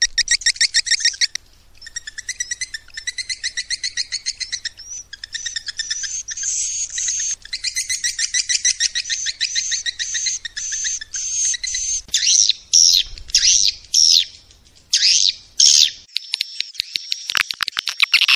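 Swiftlet lure call: fast trains of high, rattling chirps, about ten a second, turning from about twelve seconds in into short twitters that sweep downward, used to draw swiftlets to a nesting house.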